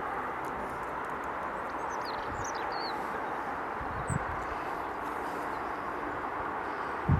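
Steady outdoor background hiss, with a few faint, high bird chirps about two to three seconds in. A low thump sounds about four seconds in and a louder one near the end.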